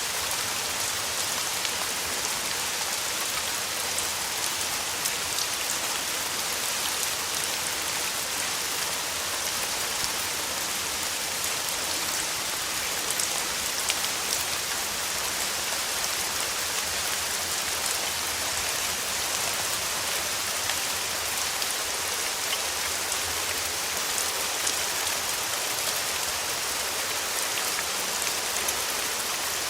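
Steady rain falling, a constant hiss of water with dense, fine ticks of individual drops hitting a surface.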